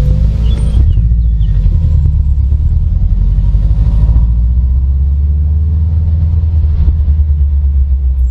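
Car engine and drivetrain heard from inside the cabin: a steady low rumble as the car moves slowly through a tight hairpin bend.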